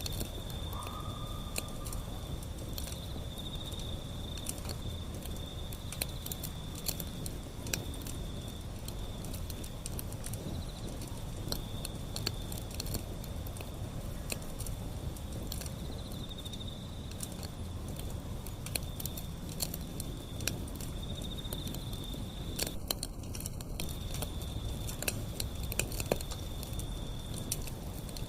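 Wood fire burning, with frequent sharp crackles and snaps over a low steady rumble of flames. A thin steady high tone runs behind it and breaks off briefly near the end.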